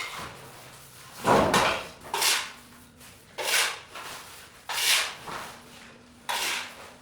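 Five short scraping strokes, one about every second and a quarter, each a brief swish that fades quickly.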